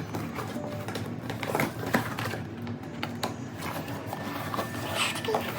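Facial kit boxes and packaging being handled: irregular light taps, clicks and rustles over a steady low room hum.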